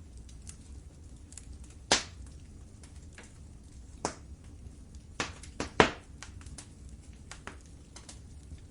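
Wood fire crackling in a fireplace: scattered small ticks and sharp pops over a low steady rumble. There is a loud pop about two seconds in, another about four seconds in, and a quick run of three just past the middle, the last of them the loudest.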